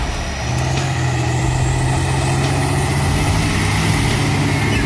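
A heavy vehicle's engine running steadily at an unchanging pitch.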